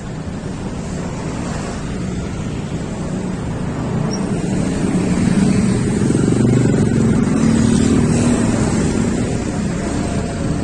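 Wind rushing over the microphone of a moving road vehicle, with its engine running underneath. The sound grows louder about halfway through.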